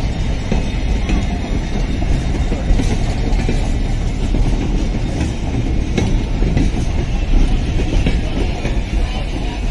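Passenger coaches of a train rolling past close by: a steady low rumble, with the wheels clicking now and then over rail joints.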